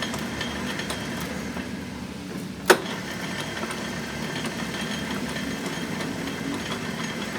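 A motor runs steadily in the background, with a single sharp knock about two and a half seconds in.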